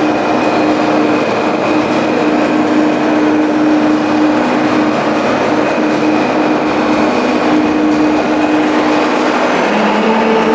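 Tractor engine running steadily: a constant loud drone with a held hum through it.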